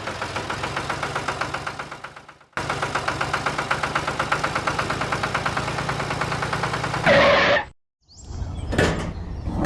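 A small engine running with a quick, even pulse of about six beats a second, heard in short segments broken by abrupt cuts.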